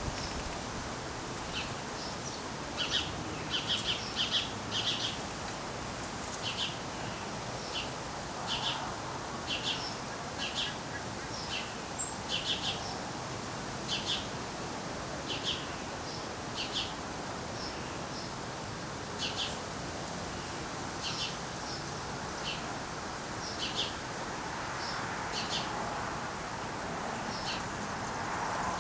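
Small birds chirping: short, high chirps repeated irregularly throughout, sometimes in quick clusters, over a steady background hiss.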